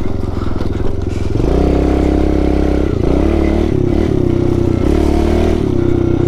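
Pit bike's four-stroke single-cylinder engine running under changing throttle on a bumpy dirt track. It picks up about a second and a half in, then drops off and revs back up a few times.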